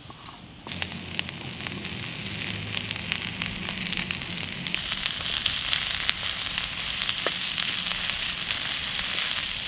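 Diced Polish sausage tipped into a frying pan of potato and onion over a campfire, setting off a sudden sizzle about a second in that keeps going, with many small spitting crackles.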